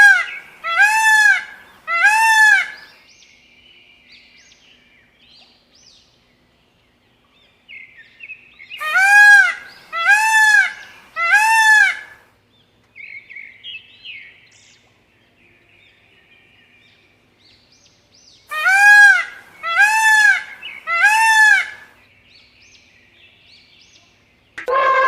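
Peacock calling: three bouts of loud, wailing calls, each bout three or four calls in quick succession that rise and fall in pitch, about ten seconds apart. Fainter, shorter calls come between the bouts.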